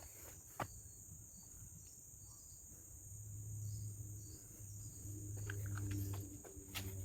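Steady high-pitched drone of a tropical forest insect chorus, with a low rumble through the middle and a few footsteps on the trail near the end.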